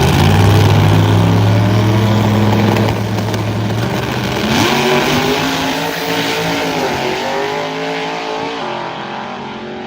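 Drag race car's engine at full throttle making a pass, loud and steady at first, with the pitch breaking twice, about four and a half and seven seconds in, as it shifts gears. It slowly fades.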